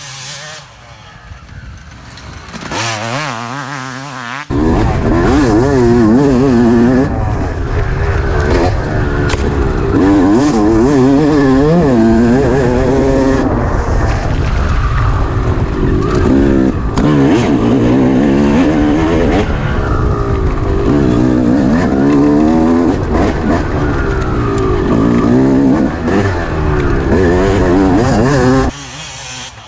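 Dirt bike engine being ridden hard, its pitch rising and falling over and over as the throttle opens and closes and the gears change. It is quieter for the first few seconds, comes in loud about four and a half seconds in, and drops away again just before the end.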